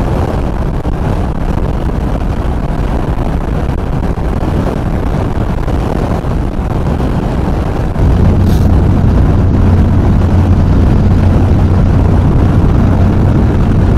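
Wind rushing over a helmet microphone and the Yamaha XV950R's air-cooled V-twin engine running at highway speed. About eight seconds in the sound steps up and a deeper steady hum comes in.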